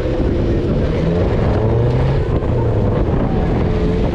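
Car engine running as the car drives into a flooded road, with wind buffeting the microphone.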